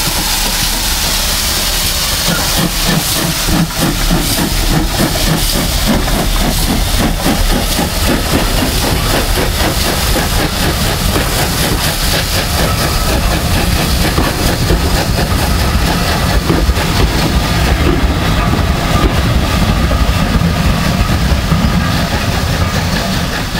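Steam locomotive at work with its train: a steady, loud hiss of steam with wheel and rail noise underneath.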